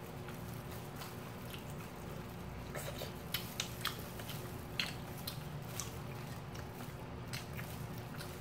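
Two people chewing and biting fried chicken, with wet chewing and a few sharp crisp clicks between about three and six seconds in, over a low steady hum.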